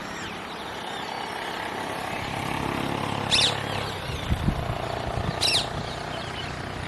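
A motor vehicle engine running in the background, its hum swelling over the first few seconds and then easing off, with two short, sharp bird calls about two seconds apart.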